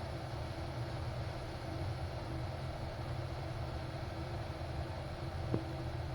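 Glass electric kettle heating water: a steady rumble and hiss, with one sharp click near the end.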